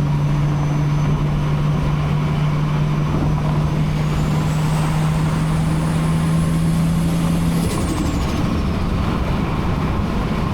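Big-turbo Toyota 2JZ-GTE inline-six in an MK4 Supra pulling under a steady engine drone while a high turbo whistle climbs from about three and a half seconds in. About eight seconds in the throttle is lifted: the engine note drops and the turbo whistle falls away quickly.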